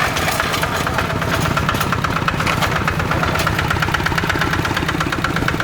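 Kubota RD85 DI-2S single-cylinder diesel on a hand tractor, running steadily with an even, rapid knock of firing pulses.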